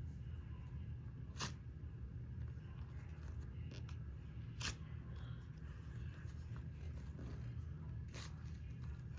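Quiet handling noise: a steady low hum with three light clicks spaced a few seconds apart.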